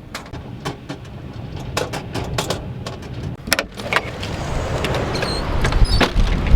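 Strong wind gusts buffeting a truck camper, with a string of sharp clicks and knocks from things rattling. The low wind rumble builds and is loudest near the end.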